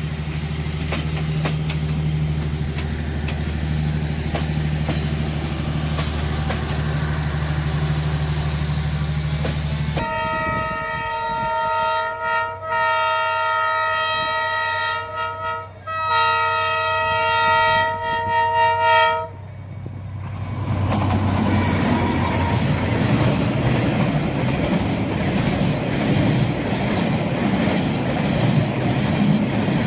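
D19E diesel-electric locomotive's engine running with a steady low hum, then the locomotive's horn sounding three long blasts. After the horn, the train rolls past with a rising rumble and clatter of wheels on rail.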